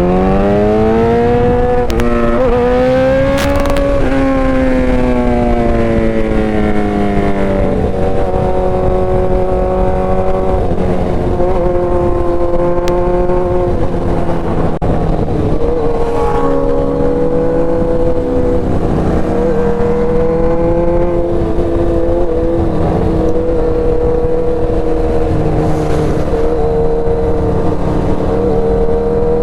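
Motorcycle engine under way. Its pitch climbs for the first few seconds as it accelerates, eases off, then holds fairly steady at cruise with a few small dips. Wind rushes over the microphone.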